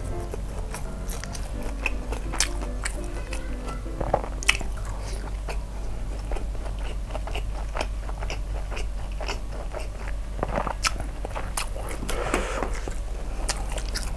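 A person chewing a mouthful of fried dim sum close to the microphone: many short crisp crunches and clicks with wet mouth sounds.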